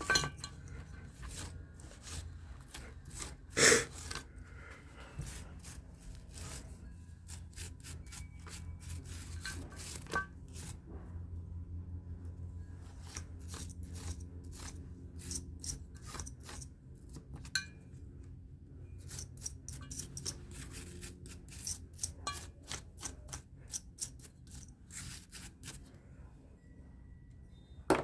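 Hands working over a fan motor and its wiring: scattered clicks, rubbing and small knocks of parts being handled, with one louder knock about four seconds in, over a steady low hum.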